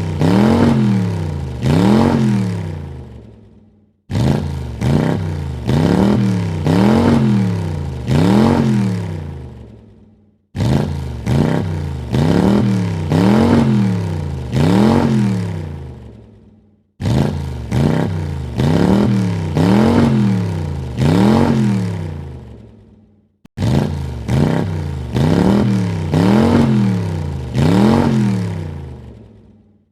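Car engine revved in three or four quick blips, each a sharp rise and fall in pitch, then dying away. The same burst repeats about every six and a half seconds, with a brief silent cut between.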